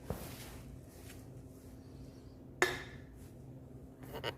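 A sharp knock about two and a half seconds in, with a short ringing tail, and a smaller knock at the start and a few light clicks near the end, as the small simulated diesel tank is handled; a low steady hum runs underneath.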